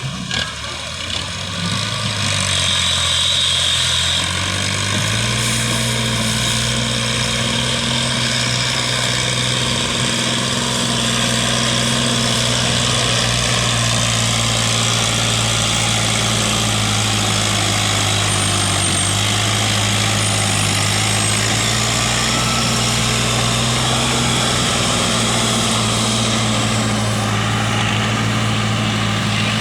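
New Holland tractor's diesel engine revving up over the first few seconds, then held at a steady high speed.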